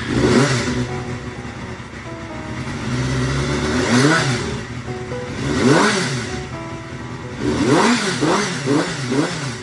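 Honda Jade 250's inline-four engine running and being revved in blips: a single rev about four seconds in, another about six seconds in, then a quick string of about five short blips near the end.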